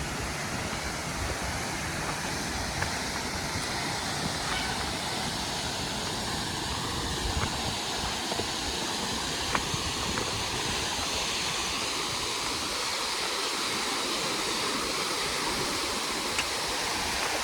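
Steady rush of a mountain waterfall and stream, with a few faint ticks over it.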